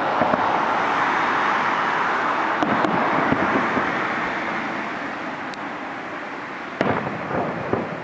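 Fireworks going off: a dense crackling that slowly fades, broken by a few sharp bangs, one near the middle and a cluster near the end.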